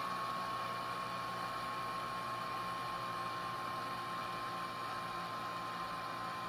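A small electric fan motor running steadily: a high, even whine over an airy hiss, the whine sinking very slightly in pitch.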